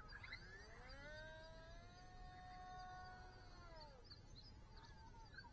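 Faint whine of a small model plane's brushless motor and 3-inch propeller: the pitch rises as throttle comes up, holds steady for a couple of seconds, then drops away about four seconds in.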